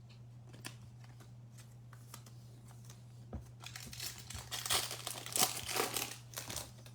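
Foil trading-card pack wrapper being torn open and crinkled, after a few light clicks of card handling. The crinkling starts about halfway through and stops shortly before the end.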